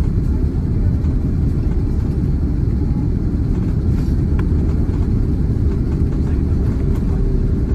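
Steady low rumble of an Airbus A330-300 around landing, heard inside the passenger cabin: engine and airflow noise with no distinct events.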